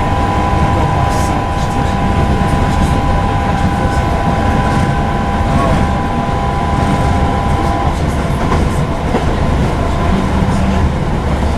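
Interior running noise of a Northern class 323 electric multiple unit at speed: a steady low rumble of wheels on rail, with a steady two-note whine that cuts off about eight seconds in.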